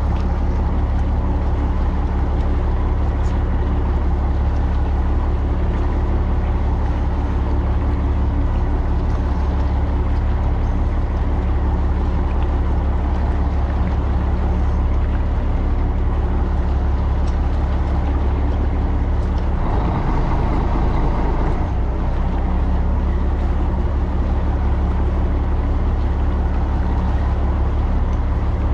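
Fishing boat's engine running steadily, a loud low drone, with a brief rush of noise about twenty seconds in.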